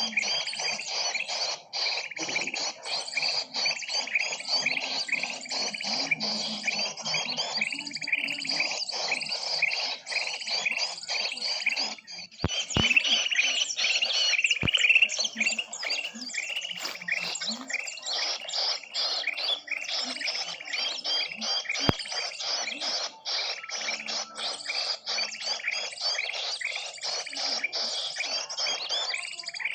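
Bird-lure recording: a dense chorus of many small birds' calls layered together, rapid high chirps and twitters overlapping without a break. The calls of several species are mixed to draw in wild birds.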